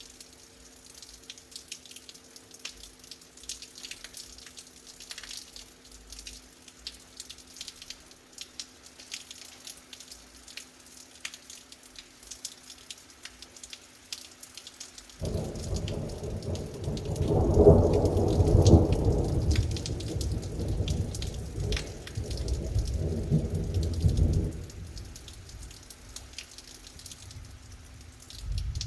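Rain falling in scattered drops, then about halfway through a very loud thunderclap breaks in suddenly. It rumbles for about nine seconds, loudest early on, and stops abruptly. Another burst of thunder starts right at the end.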